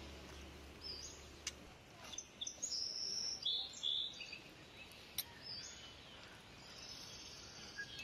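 Birds chirping outdoors: short high calls scattered through, busiest around the middle, over faint steady background noise, with a couple of sharp clicks.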